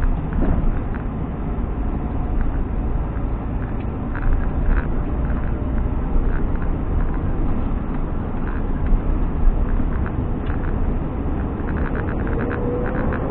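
Scania G460 lorry's six-cylinder diesel engine and road noise heard from inside the cab while driving, a steady low rumble with scattered light clicks and rattles.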